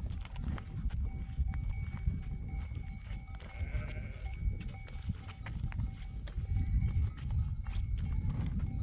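A flock of sheep, with one bleat about four seconds in and bells clinking among the animals, over a steady low rumble.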